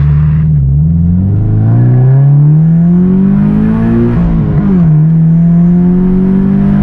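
Boxer-four engine of a Toyota 86-platform sports car with an Invidia N1 cat-back exhaust, heard from inside the cabin, accelerating hard at full throttle: the pitch climbs steadily through first gear toward 7,500 rpm, drops sharply on the upshift about four and a half seconds in, then climbs again in second.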